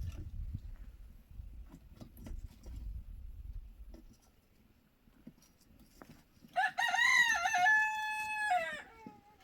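A rooster crows once, a single call of about two and a half seconds that rises, holds and then falls away, starting about two-thirds of the way in. Before it comes a low rumble with scattered faint clicks.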